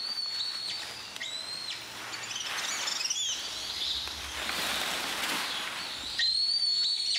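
Rainforest birds calling: high, held whistled notes that jump abruptly in pitch, with a few quick warbling trills about three seconds in. Beneath them runs a steady forest hiss that swells in the middle.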